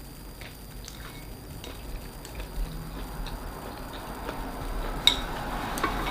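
Close-up eating sounds from a seafood meal: chewing with small clicks of shells and utensils, then a louder wet chewing noise building up, and one sharp click near the end.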